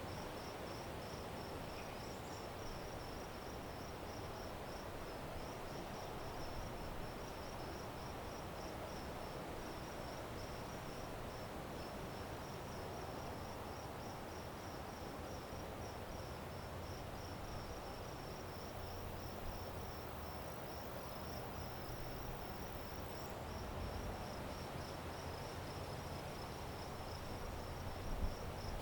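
Crickets chirping in a steady, evenly pulsed high trill, over a constant background hiss and a low rumble that grows a little stronger in the second half.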